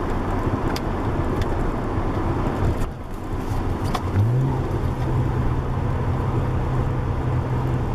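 Nissan 240SX's swapped RB20DET turbocharged straight-six running under way, heard from inside the cabin with road noise. About three seconds in the engine note dips at a gear change, then about a second later it rises and holds steady at a slightly higher pitch.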